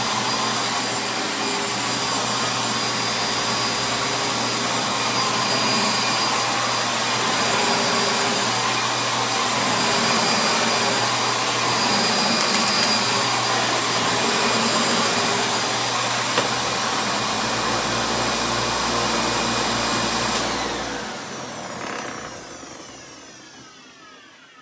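1995 Panasonic Dirt Finder 11-amp upright vacuum cleaner running steadily, then switched off about twenty seconds in, its motor and brush roll winding down with a falling whine.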